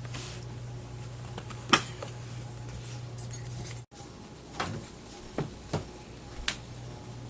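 A steady low hum with a handful of sharp clicks and knocks, the loudest about two seconds in and four more in the second half. The sound cuts out for an instant near the middle.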